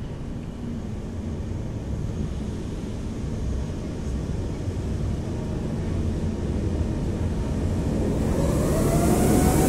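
SNCF BB 22200 electric locomotive hauling a passenger train into the station, its rumble growing steadily louder as it approaches. Near the end a whine of several tones comes in, rising slightly in pitch.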